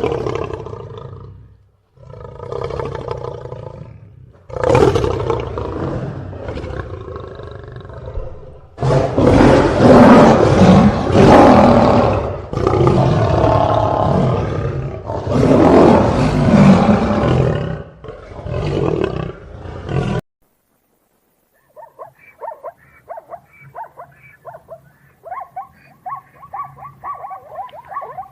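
Big cat roaring: a run of long, loud roars with short breaks, loudest in the middle. It cuts off suddenly, and after a moment of silence a softer, quicker string of short calls from another animal begins.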